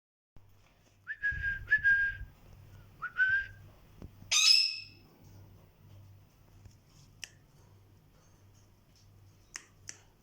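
Young mynah giving three short clear whistles, each sliding up and then holding, followed about four seconds in by one loud harsh call, then a few faint clicks.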